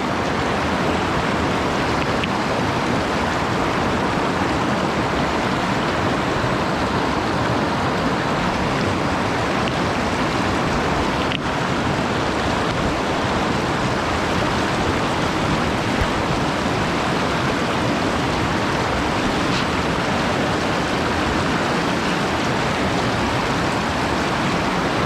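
Steady rush of a mountain stream running over rocks through pocket water.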